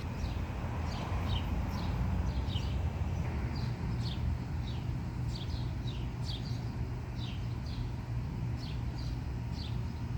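Songbirds chirping, a run of short, high, downward-slurred notes repeating every half-second or so, over a steady low rumble.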